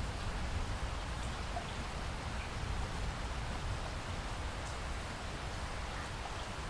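Steady rain falling, an even hiss with a low rumble and a few faint scattered drop ticks.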